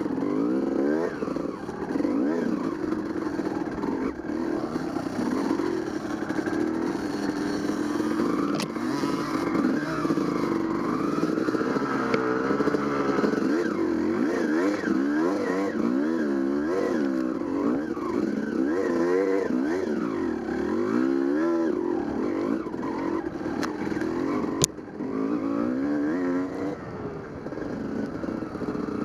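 Dirt bike engine being ridden, its pitch rising and falling continually as the throttle opens and closes. A single sharp click sounds near the end.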